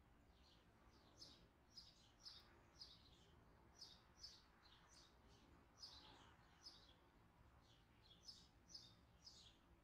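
Faint bird chirping: short, high, falling chirps, about two a second, over near silence.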